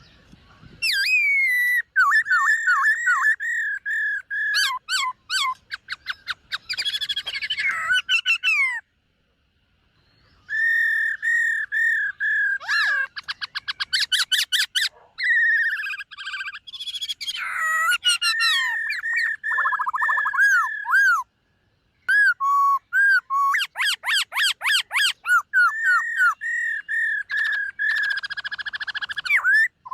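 Black-throated laughingthrush singing: three long bouts of loud whistled song made of runs of repeated notes and fast trills, broken by short pauses about nine seconds in and again about twenty-one seconds in.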